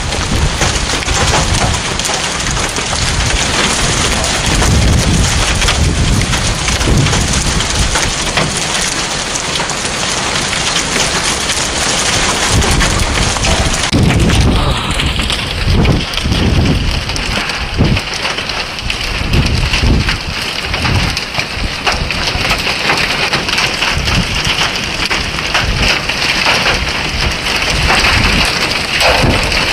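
Heavy rain pouring down in a severe thunderstorm, with gusting wind buffeting the microphone. The sound shifts about halfway through.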